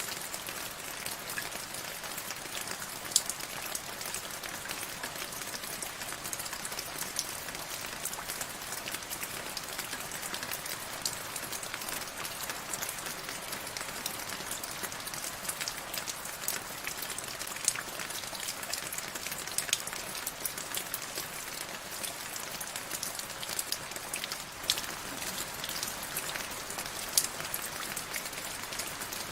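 Steady rain falling, an even hiss dotted with the ticks of separate drops hitting a surface, a few louder taps standing out.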